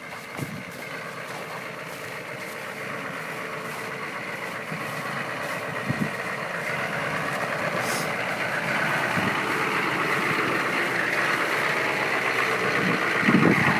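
1996 GMC 2500HD's 6.5-litre turbo diesel idling unevenly, growing gradually louder, with a few brief knocks. The uneven idle comes from air not yet purged from the fuel system and a nearly empty fuel tank.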